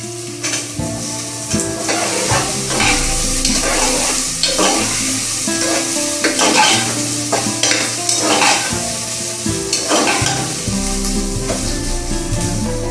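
Food sizzling as it fries in a pan, stirred with repeated scraping strokes.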